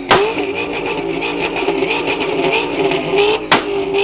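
Car engine revving, its pitch rising and falling, with a few sharp cracks.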